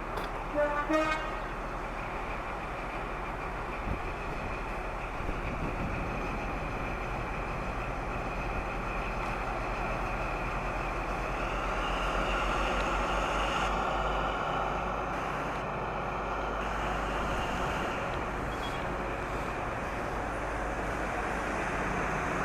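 Two-tone horn of an InterCity 125 HST sounding two short notes near the start, then the steady running noise of the train.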